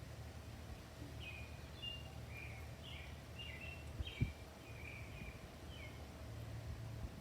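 Small birds chirping in short, repeated falling notes over a steady low background rumble and a faint hum. A single dull thump about four seconds in.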